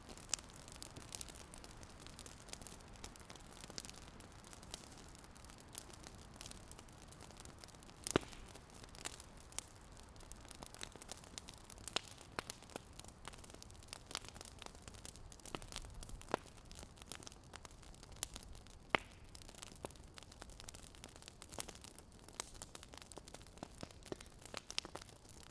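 Crackling fire: a soft steady hiss with irregular sharp pops and snaps, several a second, a few louder than the rest.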